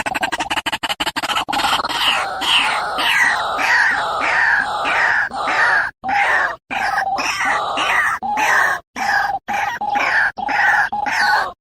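White-breasted waterhen (ruak-ruak) calling: a fast stutter of short pulses gives way, about a second and a half in, to a run of harsh repeated notes, about two a second, each sliding down in pitch.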